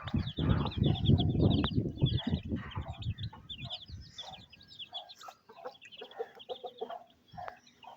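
Domestic hen clucking while her chicks peep rapidly and continuously; the hen's low clucking fades out about halfway through, leaving the chicks' peeping.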